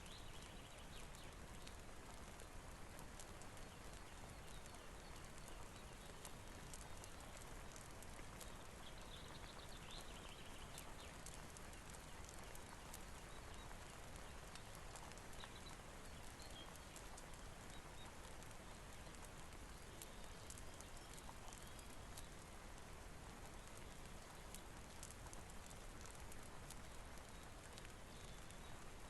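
Faint steady rain, an even hiss with many scattered light ticks.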